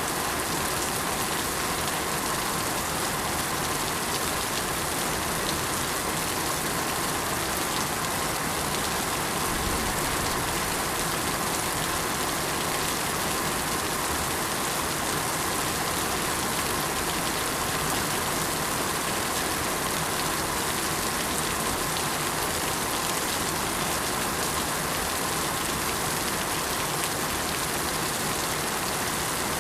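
Steady rain falling, with fine raindrop patter over an even hiss.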